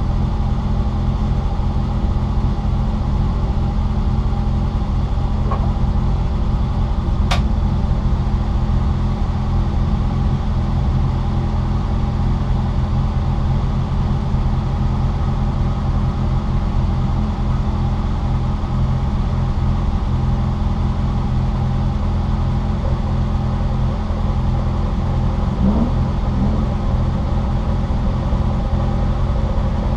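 Citroën Saxo VTR race car's four-cylinder engine heard from inside the cabin, running at a nearly steady pitch throughout. A single sharp click comes about seven seconds in.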